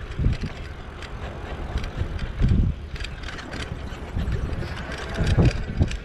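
Wind buffeting the microphone of a rider on a moving e-bike, swelling in three gusts, with light clicking and rattling from the ride.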